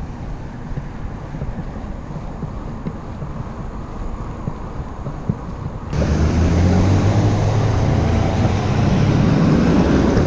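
Wind and road rumble on a moving bicycle's camera, with faint ticks. About six seconds in, a louder steady low engine hum of road traffic comes in abruptly and stays.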